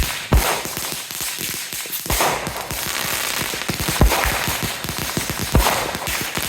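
Fireworks going off: a rapid, steady run of sharp cracks and pops, with a louder bang about every two seconds.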